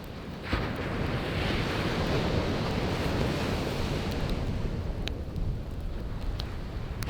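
Sea waves breaking on the shore, the surf swelling up about half a second in and washing on steadily, with a few sharp crackles of a wood campfire in the second half.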